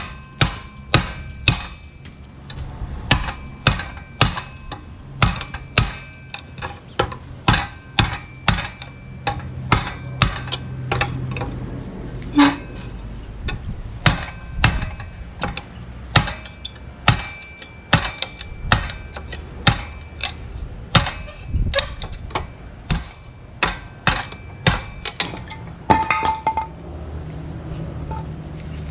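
Sanmai Bowie knife with a 52100 steel edge chopping into a wooden 2x4, about one and a half chops a second, with a faint ringing after the blows. The chopping stops a couple of seconds before the end.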